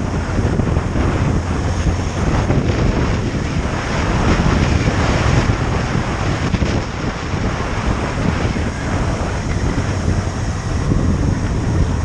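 Heavy wind rush on the microphone from a motorcycle at road speed, with the bike's engine running as a low steady drone underneath.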